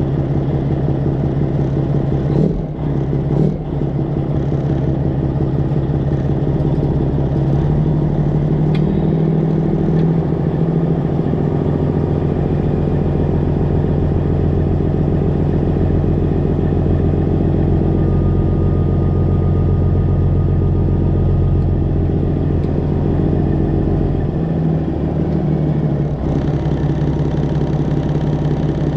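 Straight-piped Detroit Diesel 12.7-litre engine of a Freightliner Classic XL semi truck running steadily at low engine speed, its pitch shifting slightly about a third of the way in and again near the end. A couple of short knocks a few seconds in.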